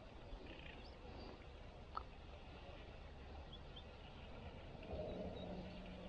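Faint outdoor background noise with a few short, faint bird chirps and one soft click about two seconds in.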